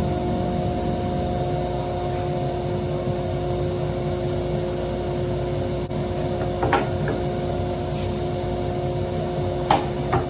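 Woodworking power machine running steadily with nothing being cut, an even hum with a few steady tones. A few light knocks come about two thirds of the way through and near the end.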